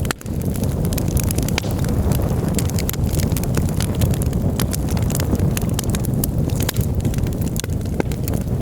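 Campfire crackling, with frequent sharp, irregular pops and snaps over a steady low rumble of wind on the microphone.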